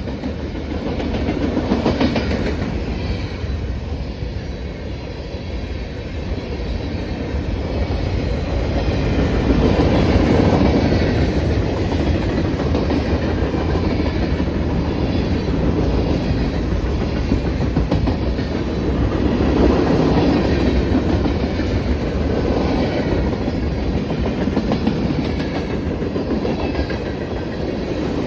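A train rolling past close by, its cars' wheels clacking steadily over the rail joints with a continuous rumble that swells and eases several times.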